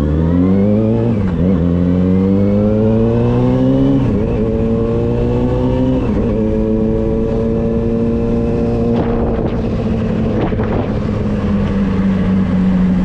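Carbureted Honda Hornet's inline-four running through an aftermarket HP Race exhaust with only a small baffle insert. The engine revs up through three quick upshifts, about a second, four seconds and six seconds in, then holds a steady cruising note.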